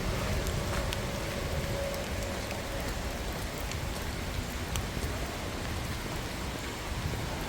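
Steady rain falling, with scattered drops ticking on a nearby surface.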